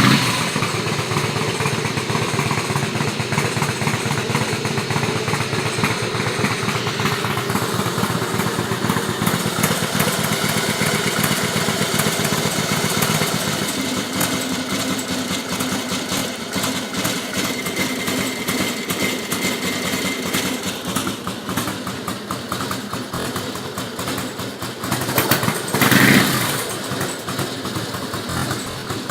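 Harley-Davidson trike's V-twin engine running steadily through its exhaust, with a brief louder surge near the end.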